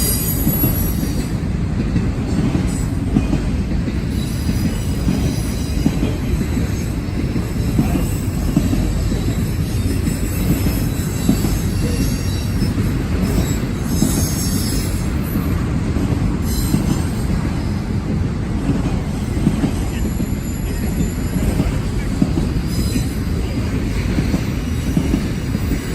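Freight train cars rolling past with a steady heavy rumble, and the steel wheels squealing on the rail now and then, most strongly about halfway through.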